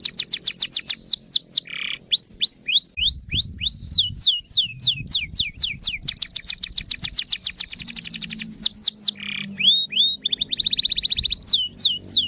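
A songbird singing a continuous song of quickly repeated whistled notes. Each note sweeps down in pitch, and the runs speed up into faster high trills twice, with a short harsh note between runs twice.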